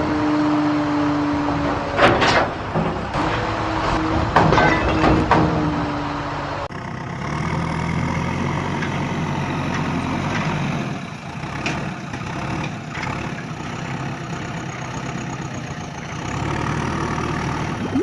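Heavy vehicle engine running, with clanks and knocks and a steady two-note tone over the first several seconds. About a third of the way in the sound cuts abruptly to a steadier low engine rumble.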